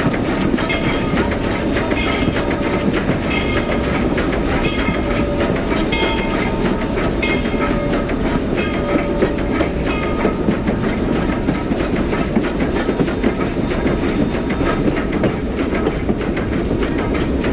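Moving train heard from an open observation car: a steady rumble of the running gear, with wheels clicking over rail joints about once a second. The clicks thin out after about ten seconds.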